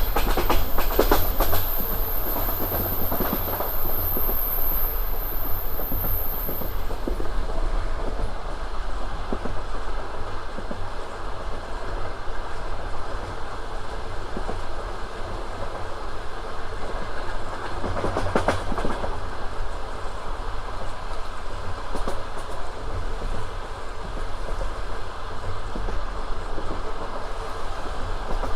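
Passenger train wheels running on the rails: a steady rumble with the clickety-clack of the wheels over rail joints. There is a cluster of sharp clacks near the start and another about 18 seconds in.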